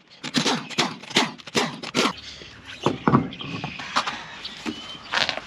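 Worn ball joints on a Ford F-150's front suspension squeaking and creaking over and over as the raised wheel is turned back and forth: the squeak is the sign that the ball joints are bad.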